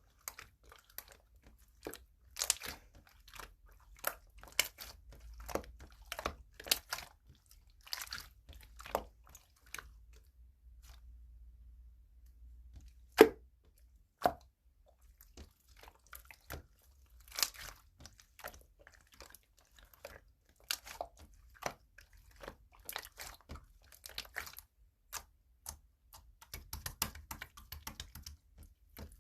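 Sky-blue slime being squeezed, stretched and pressed by hand, giving many irregular sharp popping and crackling clicks. A single louder pop comes about thirteen seconds in, after a quieter few seconds.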